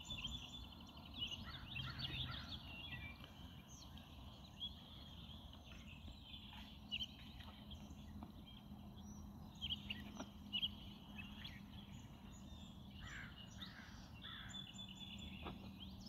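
Several small birds chirping and calling, over faint outdoor background noise, with a faint steady low hum joining in about halfway through.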